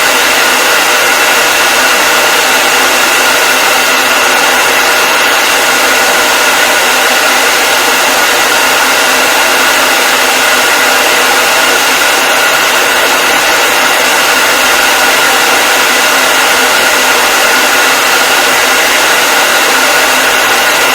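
Hair dryer running steadily: a loud, even rush of blown air with a steady whine through it.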